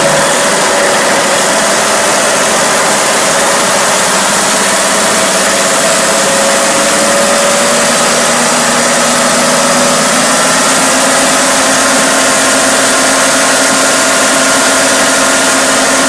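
1983 Cummins diesel engine running steadily at a constant speed.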